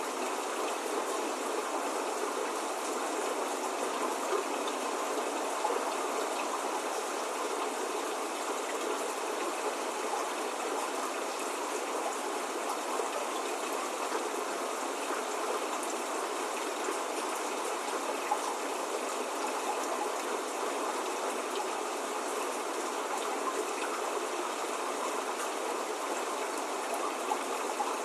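Steady spring rain falling, an even, unbroken hiss of drops with no thunder.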